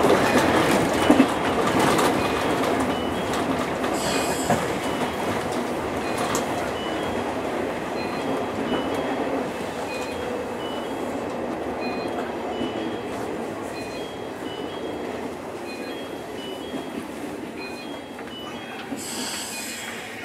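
JR East 201 series electric commuter train running into a station, heard from inside the driver's cab: steady wheel and rail noise with some wheel squeal, growing gradually quieter as the train slows. Short hissing bursts come about four seconds in and again near the end.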